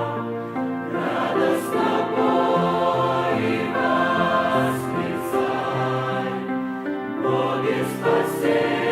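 A choir singing a slow hymn in parts, with held notes changing every half second or so.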